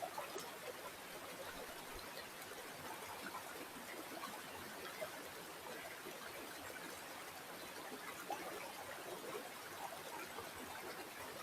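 Small stream flowing steadily, a fine gurgling and trickling of water over stones.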